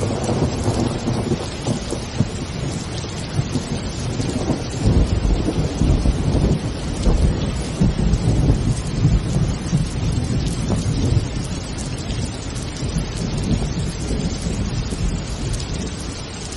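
Steady rain hissing, with thunder rumbling low underneath, heaviest from about five to eleven seconds in, then easing off.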